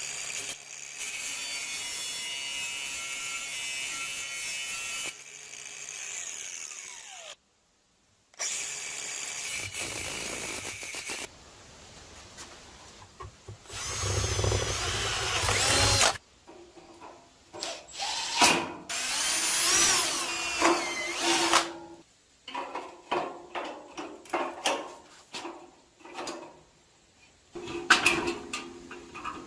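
Power-tool work on the grill's metal frame: an electric drill running and boring holes, its whine rising and falling, in several short cuts. Near the end a run of short knocks and clatters as parts are handled and fitted.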